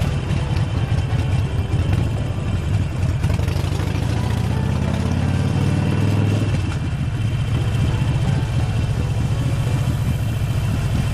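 Harley-Davidson Sportster 48's V-twin engine running while riding, with a low pulsing exhaust note. About four seconds in its pitch climbs as the bike accelerates, then drops back suddenly about two and a half seconds later.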